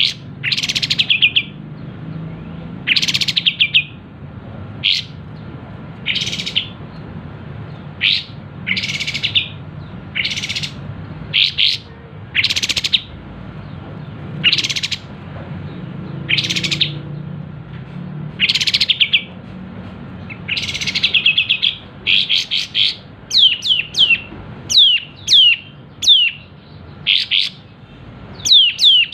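Kapas tembak bulbul singing hard: loud, sharp chirping phrases every second or two, turning about two-thirds of the way through into a quicker run of short, falling whistled notes, over a steady low hum.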